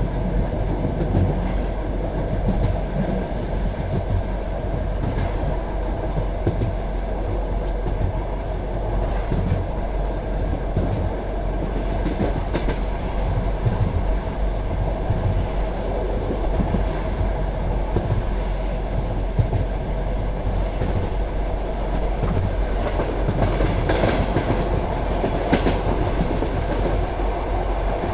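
Passenger train carriage running along the track: a steady rumble of wheels on rails, with a few sharper clicks over rail joints.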